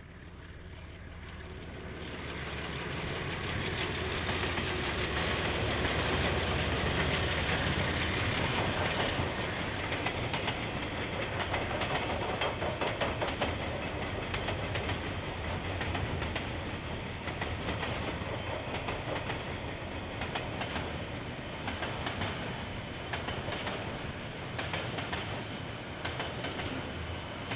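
KiwiRail freight train rolling past, a rumble that swells over the first few seconds and then holds steady as the wagons go by. Wheels click and clatter over the rail joints all through, more evenly near the end.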